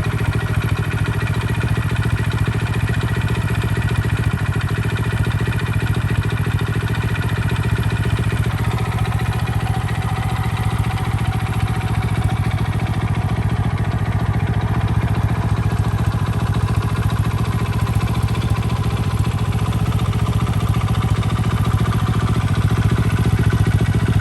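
Honda Little Cub AA01's single-cylinder four-stroke engine idling steadily, its exhaust pulses even and unchanging.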